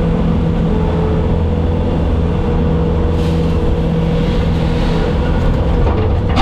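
Bobcat skid steer's diesel engine running steadily at working revs.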